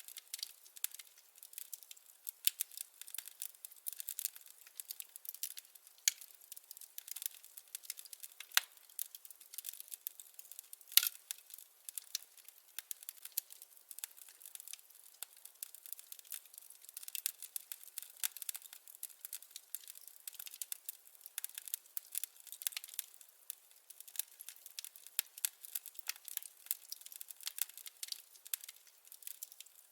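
Wood fire crackling: a dense, irregular run of small sharp pops and snaps with a few louder ones scattered through, thin and without any low roar of flame.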